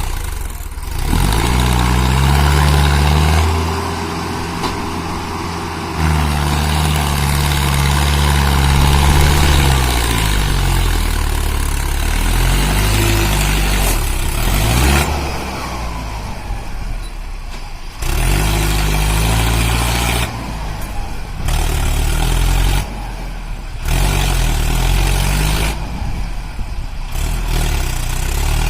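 Mahindra Arjun 605 tractor's diesel engine labouring under a heavy trolley load, its pitch rising and falling as it is revved. The sound jumps abruptly in level and pitch several times.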